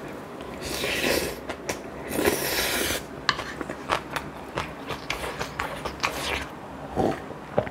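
Close-miked eating sounds: two short noisy bursts in the first three seconds, then a run of quick clicks and smacks of chewing.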